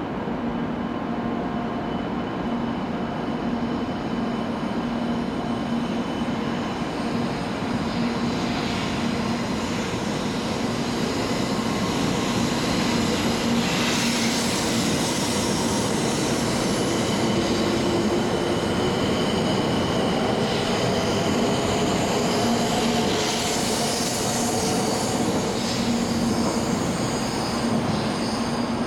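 700-series Hikari Rail Star shinkansen pulling out and running past at close range: a steady hum with rushing wheel and air noise that swells as the cars go by. More than halfway through, its electric drive whine climbs in pitch as the train gathers speed.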